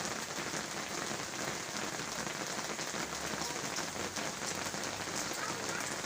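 Steady rain falling, a dense even hiss of many small drop impacts.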